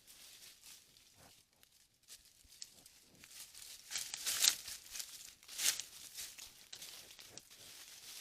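Dry rustling and crinkling in short, irregular bursts, as of something moving through dry leaf litter on the ground. The loudest bursts come about four seconds in and again near six seconds.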